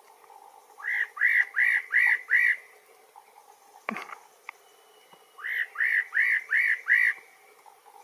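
Spot-breasted parrotbill singing: two runs of five loud, arched whistled notes in quick even succession, a few seconds apart. A single sharp knock falls between the two runs.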